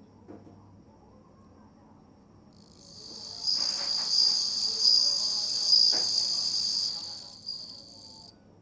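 Japanese bell cricket (suzumushi) singing: a high, ringing trill that starts about two and a half seconds in, swells, and stops shortly before the end.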